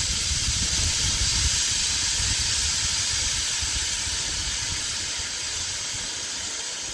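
Pressure cooker venting steam in a steady hiss as its pressure is released to end the cooking. The hiss slowly fades as the pressure drops.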